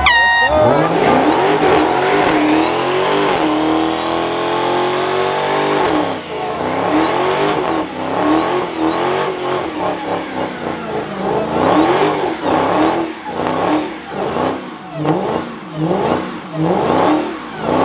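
Car engine revving hard. It climbs and holds high for the first few seconds, then rises and falls in repeated revs that come about once a second near the end.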